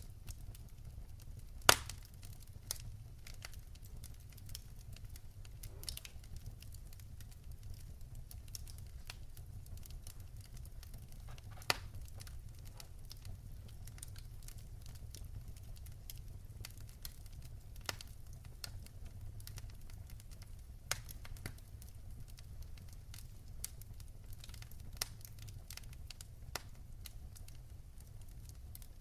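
Fire in a fireplace crackling, with irregular sharp pops over a low steady rumble; the loudest pop comes about two seconds in, and another near the middle.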